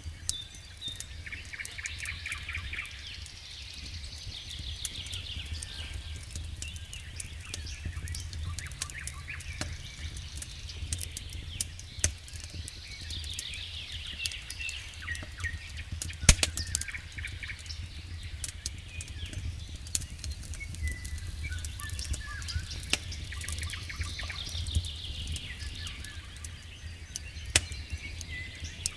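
Wood campfire crackling, with frequent sharp pops, the loudest about 16 seconds in, over a steady low rumble, while songbirds sing repeated trills in the background.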